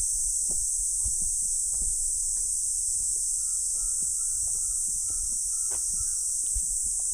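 Steady high-pitched chorus of insects in a forest, the loudest sound throughout. Under it come scattered soft footsteps and crunches on the path, with low rumble, and a faint thin whistle-like tone holds for about three seconds from midway.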